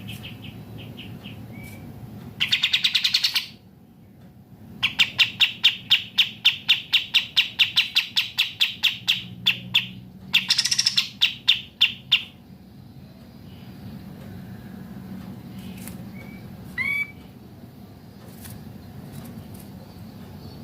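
Kapas tembak songbirds singing in a group: bursts of fast, rapid-fire chattering notes, the longest and loudest run lasting about five seconds, then a quieter stretch with one short rising whistle.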